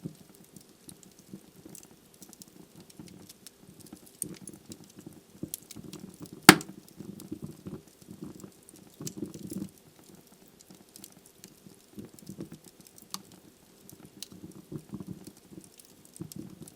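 Wood logs burning in a fireplace, crackling with scattered small pops and one loud sharp pop about six and a half seconds in.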